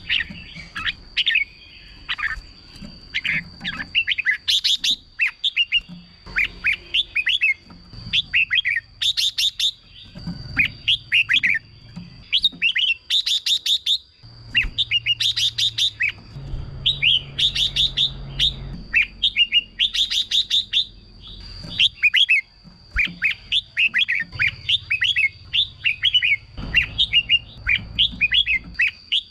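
Red-whiskered bulbul song: quick runs of short, bubbling whistled phrases one after another, broken every few seconds by a louder burst of harsh, rasping notes. A thin steady high tone runs behind it.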